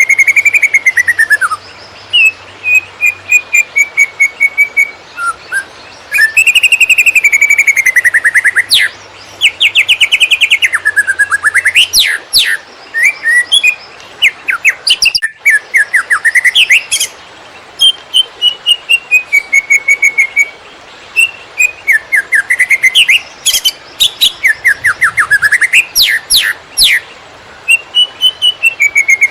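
Cucak ijo (green leafbird) singing a loud, fast, chattering song. Rapid runs of short notes alternate with rising and falling whistled glides, in phrases of a few seconds broken by brief pauses.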